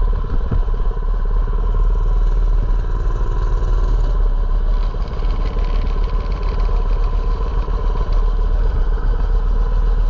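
Mini bike's small engine running steadily.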